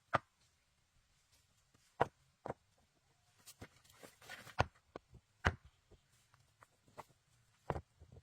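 Irregular sharp knocks and taps, about six loud ones a second or more apart, with a short scraping rustle just before the loudest knock near the middle.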